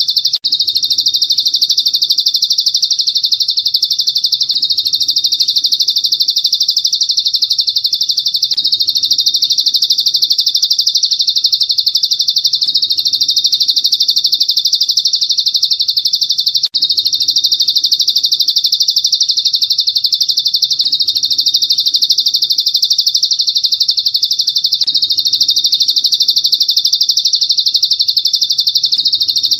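Songbird tutor recording (masteran): a continuous, very rapid high-pitched trill of chirps at a steady loudness, which breaks off for an instant twice.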